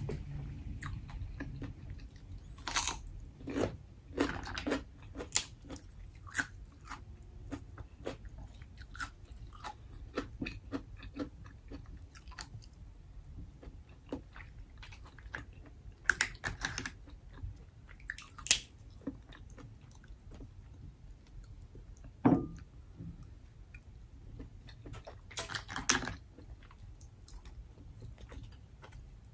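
Close-miked chewing with crunchy bites of raw radish, and black mussel shells clicking as they are pried apart by hand. A single louder thump comes about three quarters of the way through.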